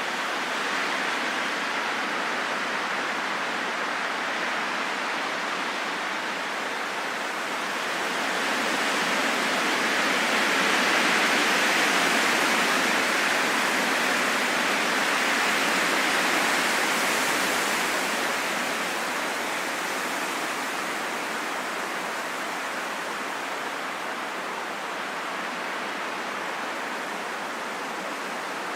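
Steady rushing wind without any howl or whistle. It swells into a stronger gust about a third of the way in, then eases back down.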